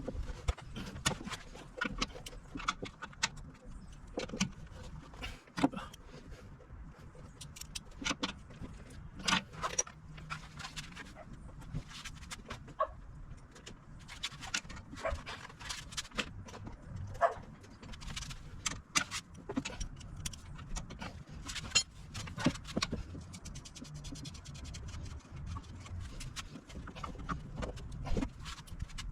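Irregular metallic clinks and knocks of hand tools and metal parts being handled, over a low rumble.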